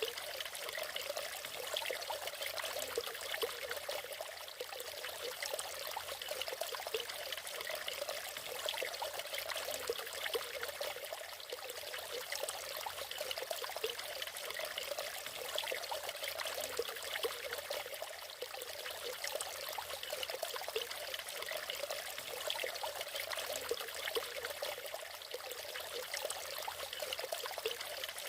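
Natural waterfall: water splashing and trickling steadily over rocks.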